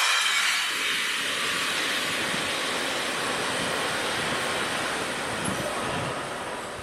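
CSX freight train rolling past on the rails, a steady rush of wheel and rail noise that fades toward the end.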